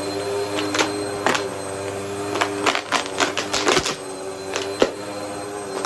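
Vacuum cleaner running steadily while coins are sucked up and clatter through it in sharp clicks and rattles, a few early on and a dense flurry about halfway through.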